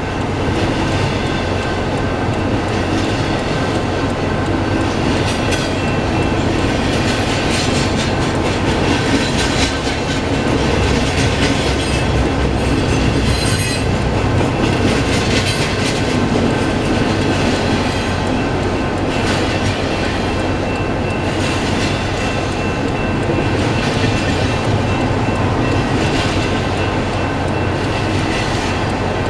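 Union Pacific double-stack container freight train rolling past close by, its wheels clacking over the rail joints, with a thin steady squeal of wheels on rail above the rumble.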